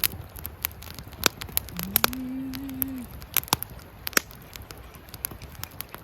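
Wood campfire crackling, with sharp, irregular pops and snaps. About two seconds in, a person gives a short low 'mm' hum lasting about a second.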